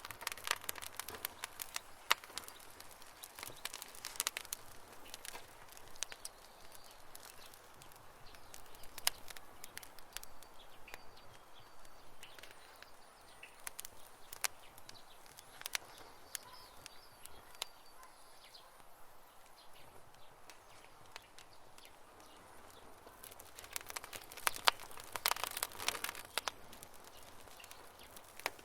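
Campfire crackling, with irregular sharp pops and snaps that come thickest near the start and again near the end. Faint bird chirps sound in the background.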